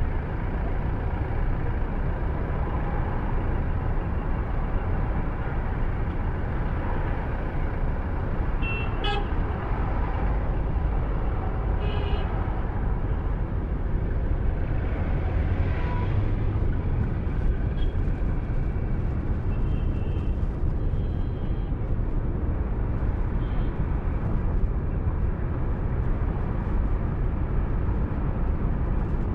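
Steady road and engine noise of a moving car, with vehicle horns tooting briefly in the surrounding traffic a few times.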